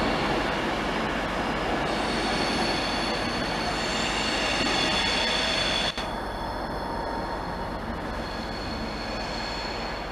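Train running through with a high-pitched squeal of steel wheels against the rail over the rumble of the wheels.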